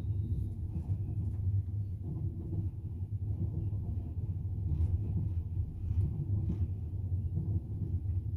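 Double-decker passenger train running, heard from inside the carriage as a steady low rumble of wheels on the rails, with a few faint scattered clicks.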